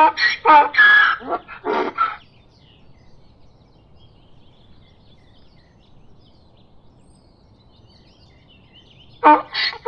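Donkey braying, a rapid series of rhythmic hee-haws that stops about two seconds in. Faint bird chirps fill the pause, then the braying starts again near the end.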